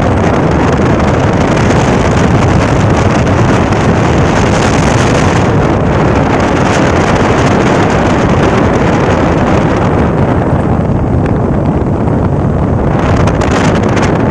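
Loud steady rush of wind on the microphone mixed with the noise of a moving boat, its engine and water running underneath; the hiss thins out for a few seconds near the end.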